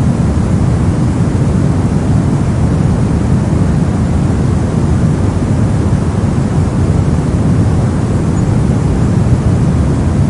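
Steady soft noise: a deep, even hiss, heavier in the low end than in the highs, that does not change.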